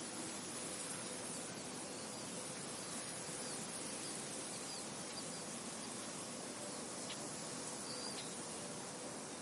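Steady wind through a field, with faint short bird chirps now and then.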